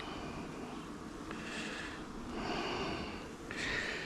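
A person breathing softly through the nose close to the microphone: three quiet breaths about a second apart.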